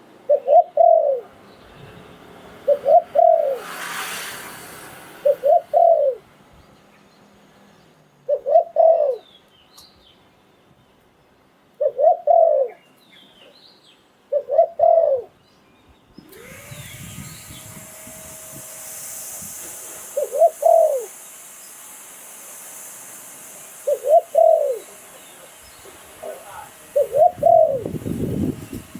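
Spotted dove cooing: a short phrase of two or three low coos, repeated about every three seconds. From about sixteen seconds in, a steady high hiss sounds beneath the calls.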